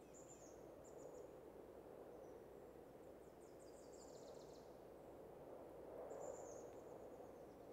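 Faint, quiet outdoor ambience with thin, high bird chirps: short calls near the start and about a second in, a descending run of notes about three seconds in, and another call about six seconds in.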